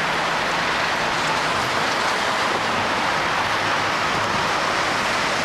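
Steady street noise from city traffic: an even, continuous hiss with no separate events standing out.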